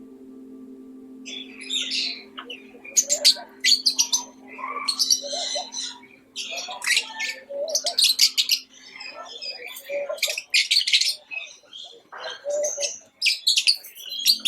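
Tropical birds calling, a quick run of sharp chirps and harsh squawks coming in clusters, starting about a second in. Underneath is a steady low musical drone that fades out about two-thirds of the way through.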